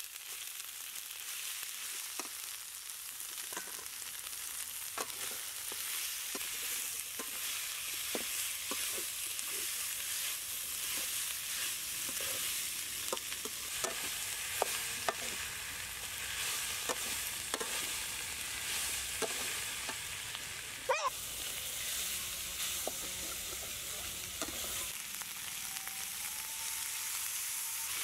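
Frog pieces and herb paste frying in a wok over charcoal, sizzling steadily, with the spatula scraping and clicking against the wok as they are stirred. There is one short sharp knock about two-thirds of the way through.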